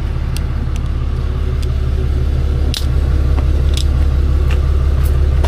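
A truck engine idling steadily, with a few light metallic clinks of tools and bolts, a sharper knock about three seconds in.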